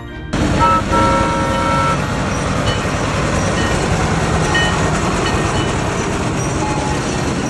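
The tractor-drawn Santa train running, a steady rumbling noise, with a short horn toot about a second in.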